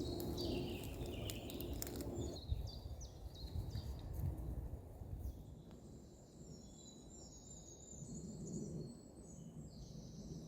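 Small birds calling with short, high, falling chirps, then a thin, high, warbling song in the second half, over a low rumbling outdoor background.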